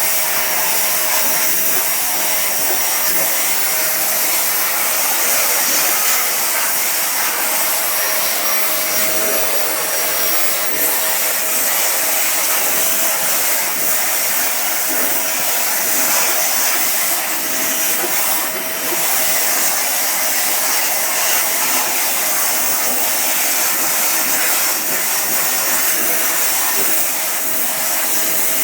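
A 1600 W household vacuum cleaner running steadily, with a constant motor whine and a hiss of air over the nozzle as it is passed over a cat's fur.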